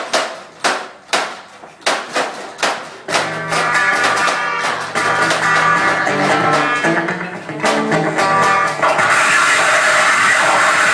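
Live experimental band playing: guitar chords struck about twice a second, then quicker tangled notes, breaking into a loud, dense wall of noise about nine seconds in.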